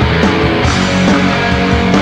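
A punk rock band playing live: electric guitars, bass and drums in a continuous loud song.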